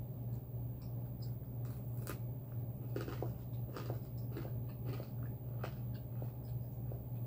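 A person chewing a mouthful of food, with short mouth clicks scattered through, over a steady low hum.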